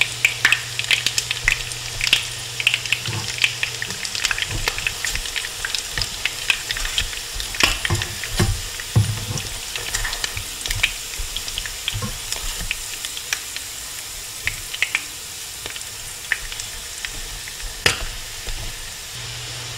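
Salmon patties shallow-frying in hot oil in a skillet: a steady sizzle full of pops and crackles. Sharp clicks and scrapes come from tongs and a spatula against the pan as the patties are turned.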